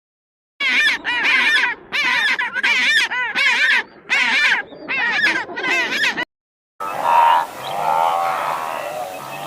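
Geese honking in a rapid series of rising-and-falling calls, about two a second, then, after a brief gap, softer and lower animal calls.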